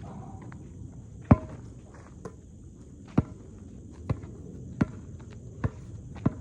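A basketball bouncing on hard ground: six sharp bounces, the first and loudest about a second in, then roughly one every second.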